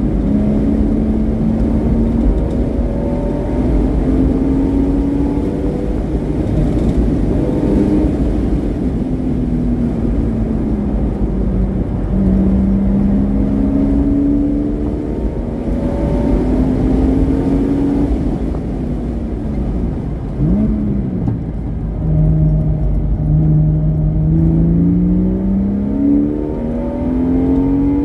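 Porsche Boxster S flat-six with a modified exhaust, driven hard on track. The engine note climbs steadily under acceleration and drops back several times as it shifts or lifts, with a quick rev blip about twenty seconds in, over a steady low rumble.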